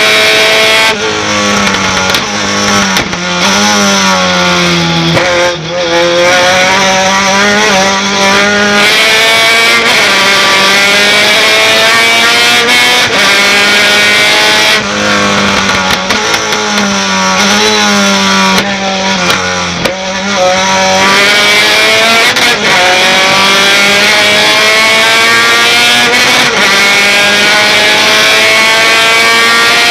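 Race pickup truck's V8 engine under hard racing load, climbing in pitch for several seconds at a time and dropping back through gear changes and braking.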